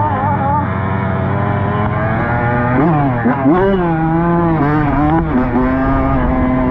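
Dirt bike engine running while riding, its speed rising and falling several times in the middle as the throttle is worked, then holding a steady pitch near the end.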